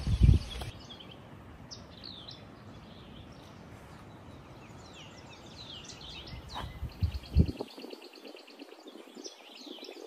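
Several birds chirping and calling, with many quick downward-sweeping chirps and, around six and a half seconds in, a fast, even trill. Low thumps on the microphone just after the start and again around seven seconds are the loudest sounds.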